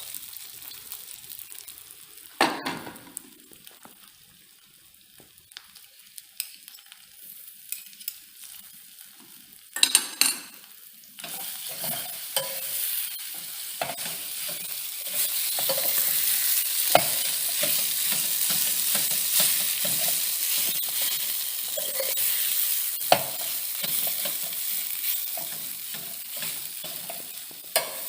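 Spiced mashed-potato filling frying in hot oil in a pan while it is stirred, the spoon scraping and knocking against the pan. A sharp knock comes about two seconds in and a clatter near ten seconds. The sizzle starts at about eleven seconds and grows louder a few seconds later.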